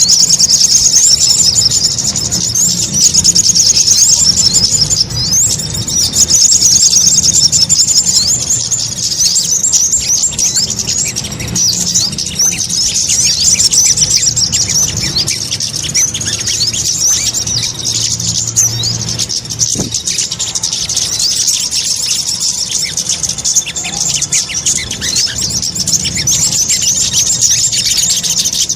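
Bird-trapping lure recording of sogon (sogok ontong) bird calls: a continuous, fast stream of high, thin chirps and trills, with a low hum underneath.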